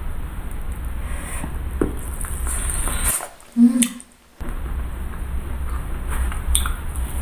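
Close-miked chewing and wet mouth sounds of eating a chewy fried cireng filled with shredded chicken, with small clicks over a low steady hum. About halfway the sound drops out briefly around one short louder sound.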